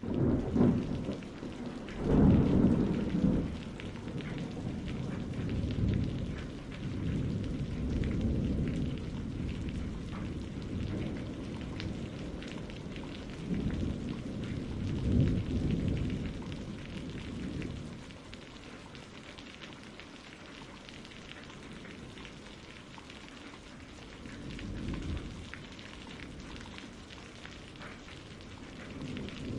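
Steady rain with rolling thunder: a deep rumble breaks in suddenly, is loudest a couple of seconds in, rolls on and swells again about halfway, then dies down, with a fainter rumble near the end.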